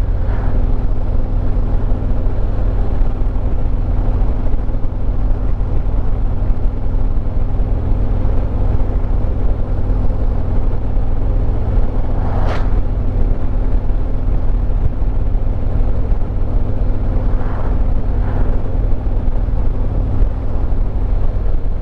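2023 Harley-Davidson Road Glide Limited's Milwaukee-Eight 114 V-twin running steadily at cruise, with wind and road noise. A brief rush of noise comes about twelve seconds in.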